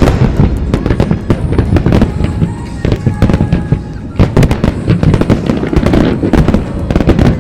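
Fireworks shells bursting in rapid, dense succession, with many overlapping bangs and crackles.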